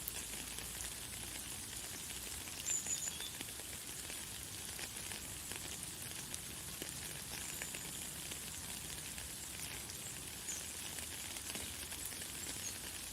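Light, fine rain falling steadily, a dense patter of small drops, with a few short, high bird chirps over it, the clearest about three seconds in.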